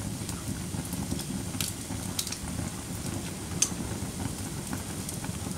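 Wood fire crackling in a fireplace: a steady low rumble of burning with a few sharp pops, the loudest a little past halfway through.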